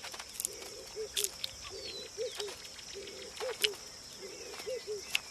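Natural outdoor ambience: a steady high insect chirring, with a low two-note call repeating about every second and a quarter, scattered sharp clicks and a few brief bird chirps.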